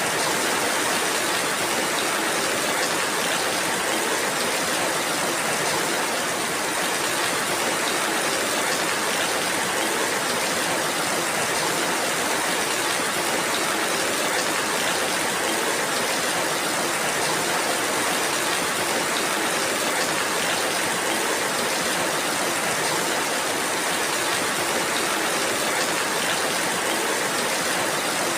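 Steady rainfall, an even, unbroken sound of rain.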